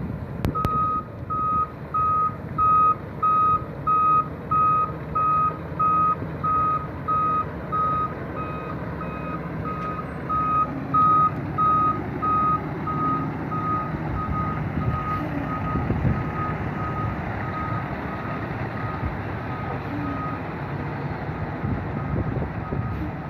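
2007 Mack CT713 refuse truck with a 12.0 L inline-six diesel running while its back-up alarm beeps steadily, about one and a half beeps a second. The beeps grow fainter after about eight seconds and stop near the end, while the engine keeps running.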